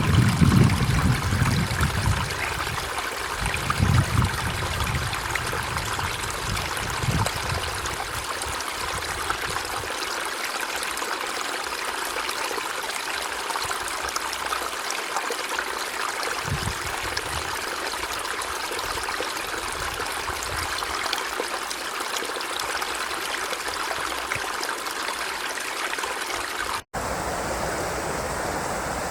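River water rushing and splashing over rocks in a steady wash, with a few low rumbling surges in the first few seconds and once more midway. Near the end it breaks off for an instant and resumes as another stretch of flowing water with a slightly different tone.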